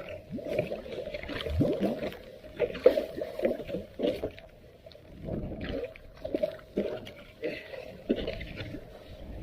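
Floodwater splashing and sloshing in irregular bursts as a blocked street storm drain is worked clear of mud and debris.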